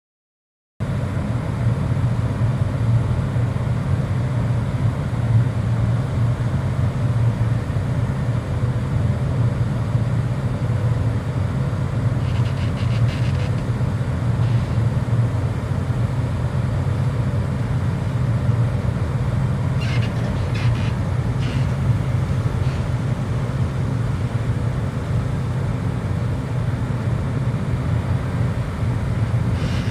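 Steady low drone of a large ferry's engines heard from on board, with a few faint clicks or rattles about twelve seconds in, around twenty seconds in and near the end.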